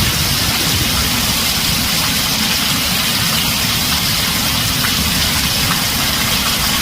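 Heavy rain falling steadily on a tin roof: a dense, even hiss over a low rumble.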